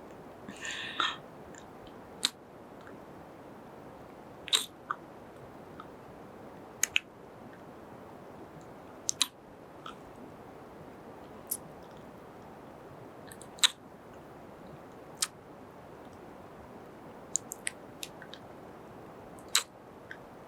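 Close-up kisses and lip smacks into the microphone: short, sharp, wet smacks every second or two, some in quick pairs, with a softer, longer smooch about a second in.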